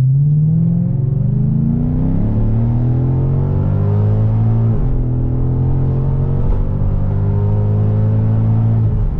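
Mercedes-Benz C63 AMG's naturally aspirated 6.2 V8 (M156), fitted with a straight-through exhaust, pulling hard under full acceleration. It rises in pitch for about five seconds, drops with an upshift, then climbs again, with another shift near the end. Heard loud from inside the cabin.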